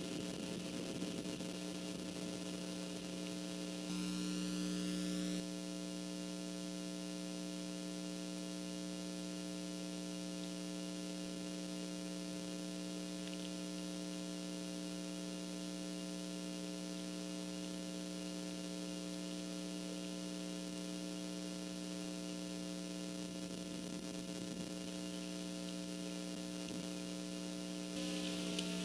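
Steady electrical hum with a faint hiss, as picked up on a live camera's audio line. It grows a little louder for a second or so about four seconds in, and again near the end.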